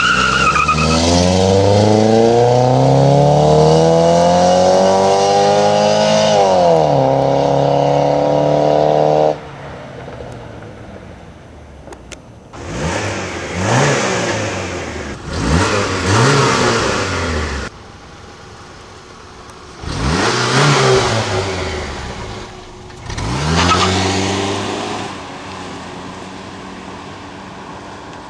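Car engine accelerating hard, its pitch climbing, dropping once about six seconds in as it shifts gear and climbing again, then cutting off about nine seconds in. After that, quieter, a car engine revs up and back down four times.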